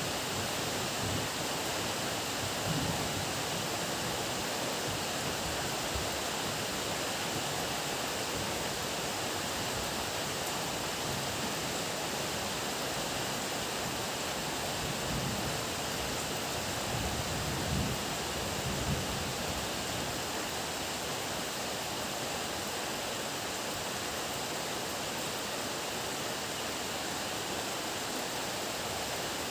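Heavy rain falling as a steady, even hiss, with a few brief low rumbles in the middle.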